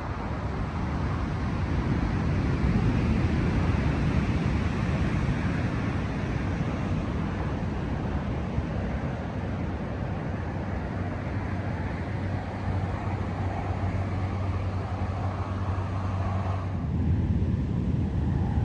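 Steady low rumbling noise of the open coast, with a low steady hum joining about ten seconds in. The sound changes abruptly near the end.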